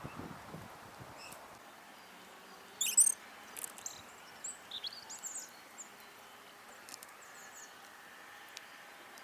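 Small songbirds calling at a garden feeder over a steady outdoor background hiss: a loud cluster of short, high chirps about three seconds in, then scattered brief chirps and quick pitch glides for a few seconds.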